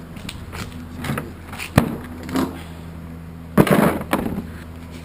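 Volkswagen 1835cc air-cooled flat-four engine idling with a steady hum, broken by several sharp knocks and a brief clattering burst about three and a half seconds in.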